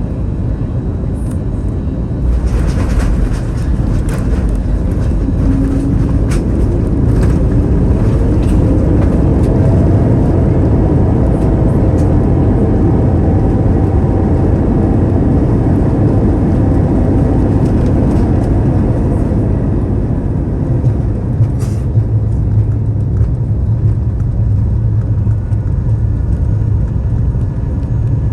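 Cabin noise of an Airbus A321neo landing. A thump and rattle about two and a half seconds in marks the touchdown. The rush of its Pratt & Whitney geared turbofans in reverse thrust and the braking then swells and fades after about twenty seconds into a steady low rumble as the jet slows on the runway.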